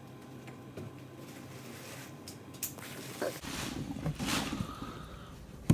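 Plastic battery-acid bottle being handled and squeezed to push electrolyte down its filler pipe into the next cell, with soft rustling that grows busier partway through and a sharp click near the end.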